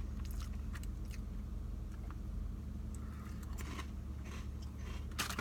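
Steady low electrical hum with a few faint small clicks; just before the end a burst of crackly rustling starts, like a snack bag being handled.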